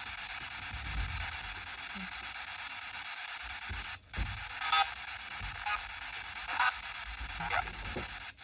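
Spirit box sweeping through radio stations: a steady hiss of radio static, with a brief dropout about four seconds in and then short snatches of broadcast sound breaking through every second or so.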